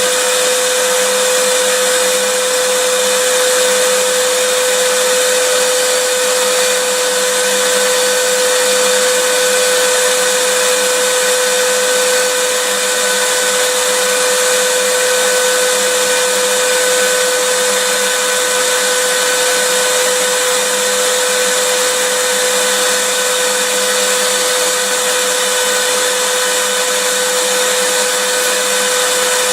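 Vacuum cleaner running continuously at a steady pitch, a loud even hiss with a steady hum, used as white noise.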